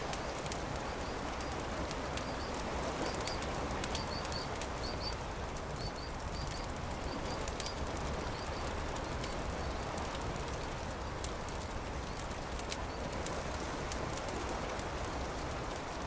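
Campfire crackling, with scattered sharp pops over a steady rushing background. A small bird chirps in short paired notes during the first half.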